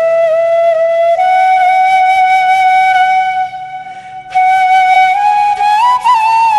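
Background music: a flute playing long held notes, with a short pause about halfway and a few quick ornamented notes near the end.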